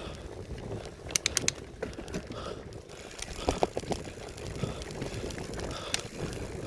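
Bicycle rolling over a rough forest trail: tyres on dirt and a steady low rumble, with a quick run of sharp clicks and rattles about a second in and a few more later.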